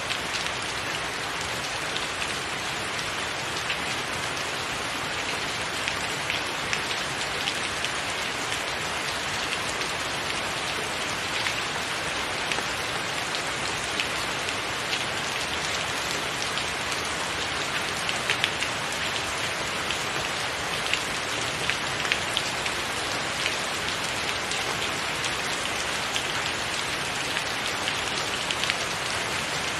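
Steady rain falling on a tiled roof: an even hiss dotted with many small, sharp drop hits.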